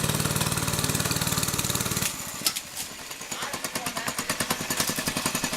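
Monster Moto 80cc mini bike's single-cylinder engine running steadily at speed. About two seconds in, the engine sound drops away abruptly, leaving a quieter, rapid clatter.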